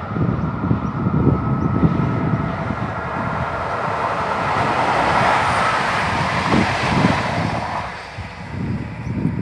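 Renfe class 269 electric locomotive hauling a rake of passenger coaches past at line speed. Its running noise swells to its loudest about five seconds in, then fades away after about seven seconds.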